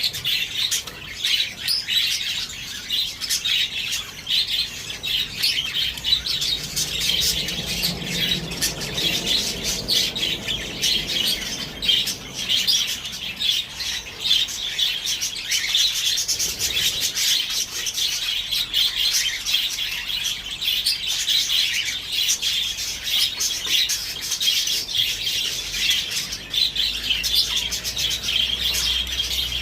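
Parrots chirping and chattering continuously, a dense run of high, quick calls with no breaks.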